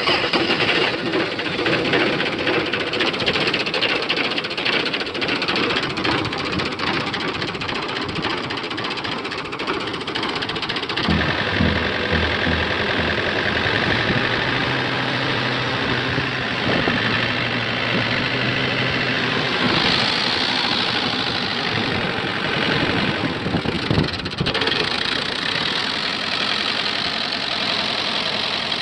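Diesel tractor engine running steadily, just after being started. About eleven seconds in its sound changes and a low, even engine note comes forward.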